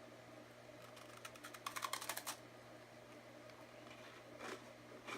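Faint, quick run of crisp crackling clicks lasting about a second, then two single clicks near the end, from a Hanuta hazelnut wafer snack being handled.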